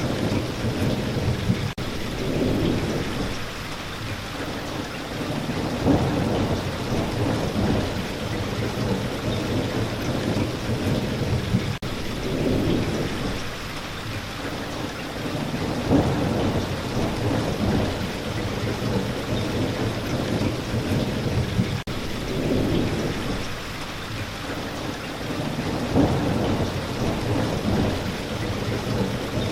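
Steady rain, with low rumbles of thunder rising and fading every few seconds.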